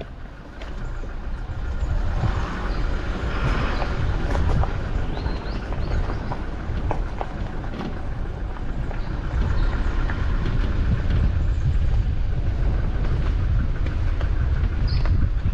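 A vehicle driving along a rough dirt bush track: a steady low rumble with frequent knocks and rattles as it goes over the bumps.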